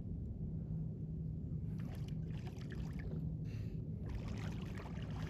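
Water splashing and trickling around a kayak, starting nearly two seconds in, over a steady low rumble.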